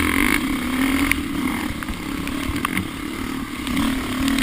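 Off-road vehicle engine running at a steady, moderate pace on a muddy trail, with a few brief clicks and knocks.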